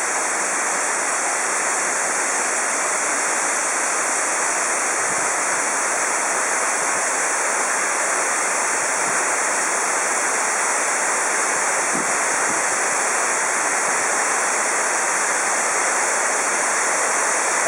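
Varovitets waterfall: water falling and rushing in a steady, even wash of noise that does not change.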